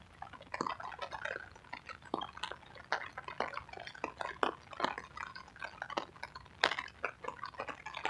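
Rain drops tapping and dripping in light, easing rain: irregular single taps, several a second.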